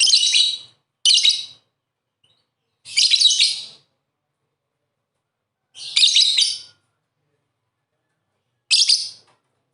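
Lovebird chirping in short, shrill bursts of rapid calls, five bursts separated by pauses of one to two and a half seconds.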